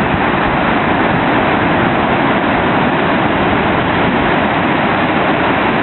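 Ocean surf from a heavy post-typhoon swell, a steady continuous wash of breaking waves, with wind buffeting the microphone.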